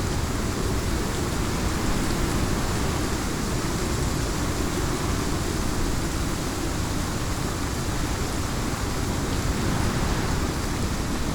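Heavy rain in a windstorm: a steady, dense hiss over a deep rumble, with no distinct thunderclap.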